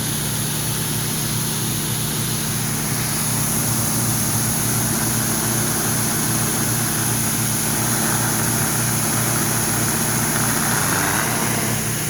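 Pressure washer engine running steadily, with the hiss of the water spray over it.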